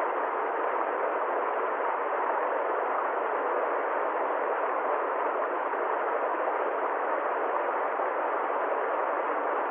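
Steady, unchanging rushing noise with no rhythm, tones or separate events.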